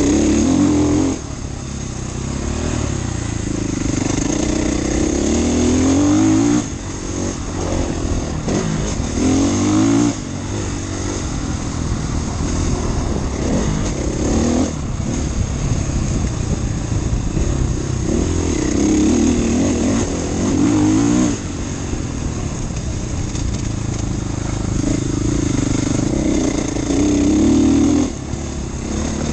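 Husqvarna FE450 enduro motorcycle's 450 cc single-cylinder four-stroke engine being ridden hard. The pitch climbs in repeated surges under acceleration, and the sound drops off sharply every few seconds as the throttle is closed.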